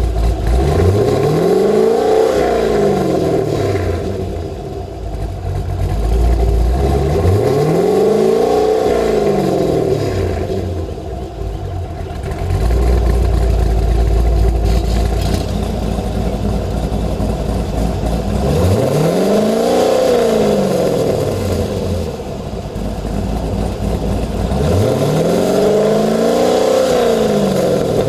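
C5 Corvette's LS-series V8 with a B&B Fusion exhaust, blipped four times from idle, each rev climbing and falling back over about three seconds, with a low idle rumble between the revs.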